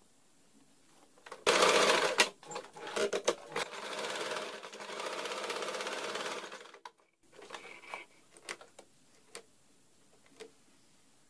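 Sewing machine stitching. It starts with a short loud burst about one and a half seconds in, stops and starts a few times, then runs steadily for about three seconds and cuts off suddenly. Light clicks and taps follow.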